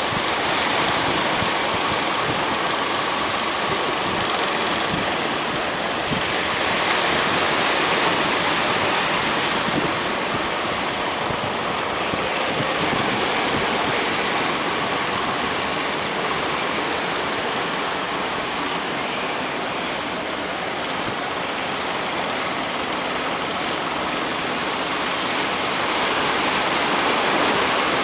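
Big sea waves breaking as continuous surf, the wash swelling louder about a second in, again around seven to nine seconds, and near the end.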